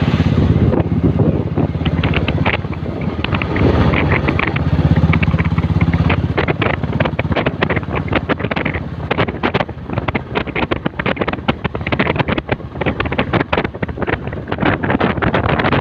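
Motorcycle running along the road, its engine a steady low hum in the first half, with wind buffeting the microphone in rapid crackling gusts that take over in the second half.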